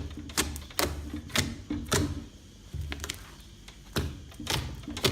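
Slime being squeezed and kneaded by hand, giving irregular sharp clicks and pops, about two a second.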